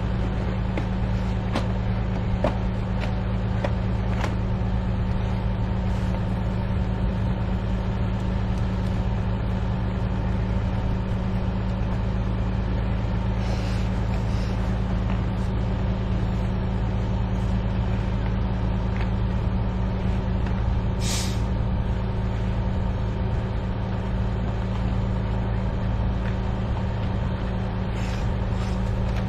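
A steady low mechanical drone, like a running vehicle, with a few faint clicks and a brief hiss about two-thirds of the way through.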